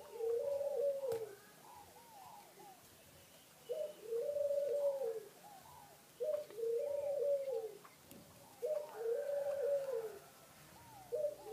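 A bird calling in the background: five low, arching calls, each about a second long and repeating roughly every two and a half seconds, with faint short chirps in between.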